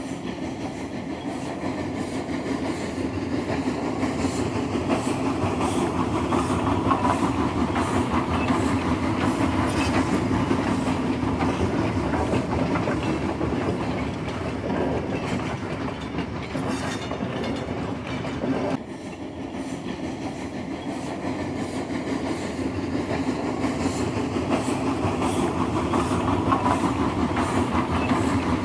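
A train running along the rails, a steady rumble with the clickety-clack of wheels over rail joints. About two-thirds of the way through, the sound breaks off abruptly to a quieter level and then builds up again.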